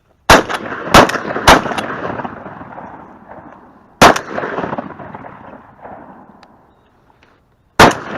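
Shotguns firing at geese: five blasts, three in quick succession about half a second apart, then one about four seconds in and another near the end, each trailing off in a long rolling echo.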